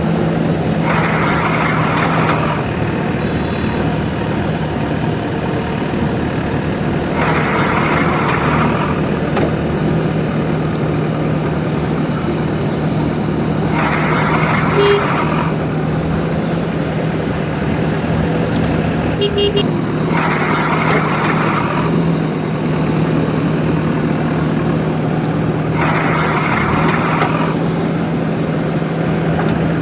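Steady vehicle engine drone with a short hissing burst about every six seconds, repeating evenly like a loop.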